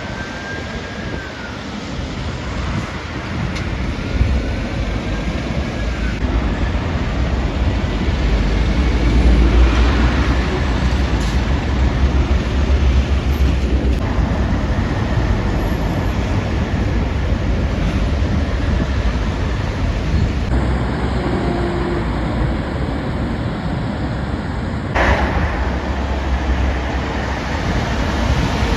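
Heavy trucks passing on a main road: deep engine rumble with tyre and road noise, building to its loudest about ten seconds in and then staying steady. The sound changes abruptly twice in the second half.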